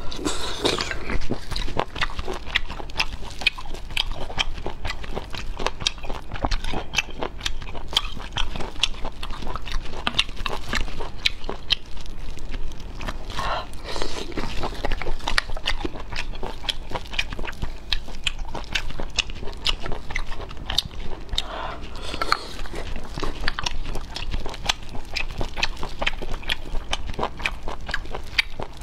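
Close-miked mouth sounds of eating cooked snails: wet chewing, biting and lip smacks in a dense, continuous run of small clicks.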